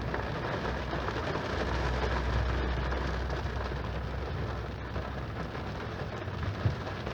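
Steady heavy rain, an even hiss with no let-up, over a low steady hum of a vehicle engine.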